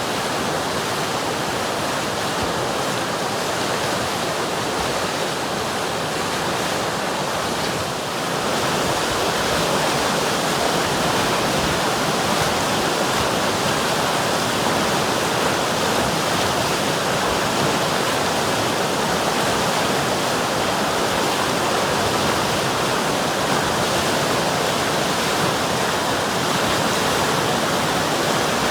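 River water rushing steadily over rocks, a constant even rush that gets slightly louder about eight seconds in.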